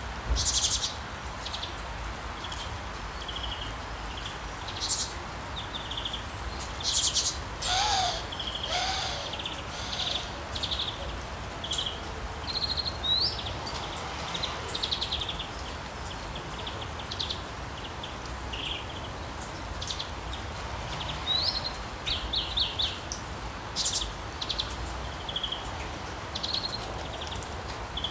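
Rainforest ambience: many short, high-pitched bird calls and chirps scattered throughout over a steady background hiss, with two lower calls about eight and nine seconds in.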